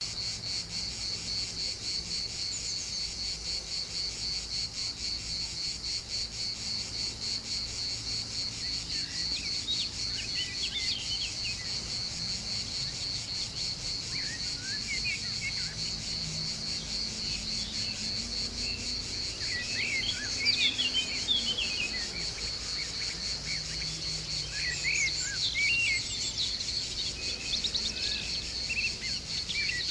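A high, steady chorus of insects trilling continuously, with birds chirping in short bursts over it from about nine seconds in, busiest around twenty and twenty-five seconds.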